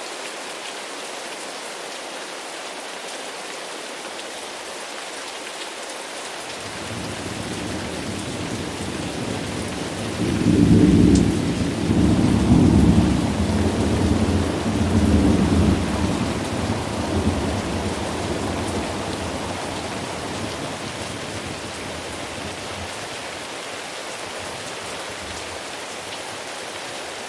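Steady rain falling, with a roll of thunder that builds about a quarter of the way in, peaks in several rumbling surges and slowly dies away.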